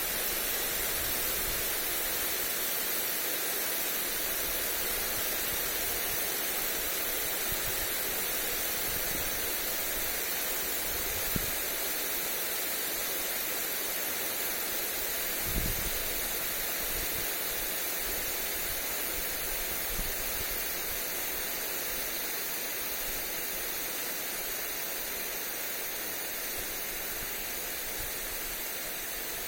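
Lawn sprinkler spraying water onto grass: a steady, even hiss. A few brief low thumps of wind hit the microphone.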